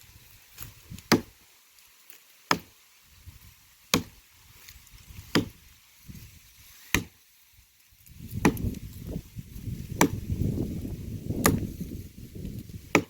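Firewood being chopped by hand with a bladed tool: nine sharp, evenly paced blows about a second and a half apart. A low rustling noise runs under the later blows.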